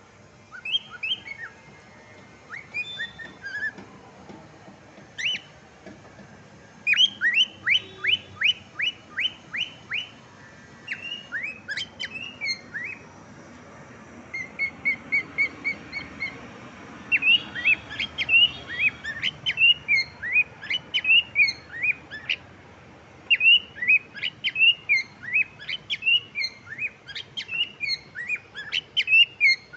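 Cockatiel chirping in quick runs of short, sharp chirps, with brief pauses between the runs and a short run of small, even notes about halfway through.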